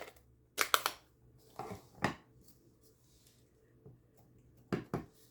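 A stamp being inked on an ink pad and pressed onto card stock: a few light taps and knocks, spaced out, with a pair close together near the end.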